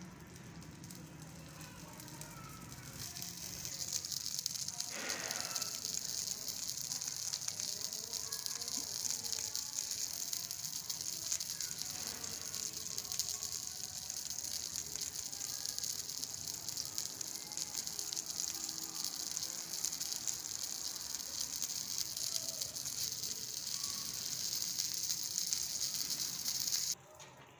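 Masala-coated eggplant (baingan) halves sizzling in oil on a flat iron tawa. A steady hiss comes up about three seconds in, as slices and oil go onto the hot griddle, and cuts off suddenly near the end.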